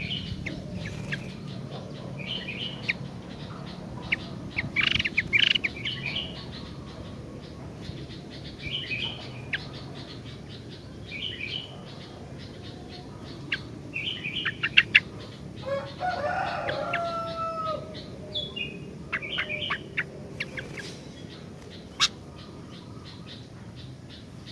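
Sooty-headed bulbul (kutilang) singing short, bright, bubbly phrases every second or two. A lower, drawn-out gliding call comes in about two-thirds of the way through.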